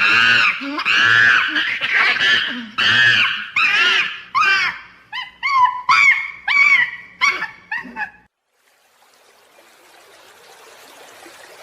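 An animal calling over and over in high, arching whines, the calls growing shorter and quicker about five seconds in and stopping about eight seconds in; a faint hiss follows.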